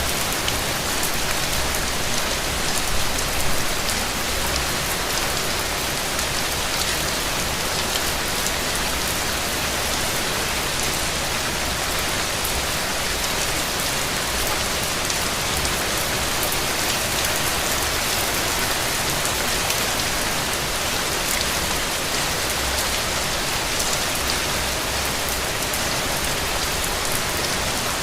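Steady rain falling, an even hiss thick with fine drop ticks, holding the same level throughout.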